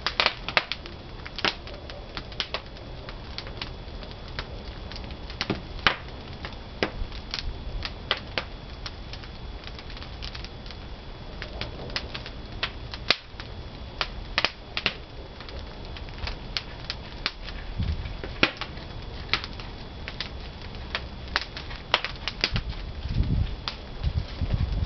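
Pine firewood burning in a traditional wood-fired kiln, crackling with irregular sharp pops and snaps, plus a few low rumbles near the end.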